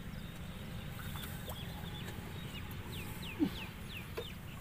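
A bird calls over a steady low rumble: a short sharp note about three and a half seconds in, among a quick run of four or five falling chirps.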